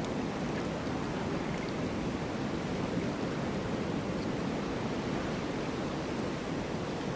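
Snowstorm wind: a steady, even rushing noise with no gusts or breaks.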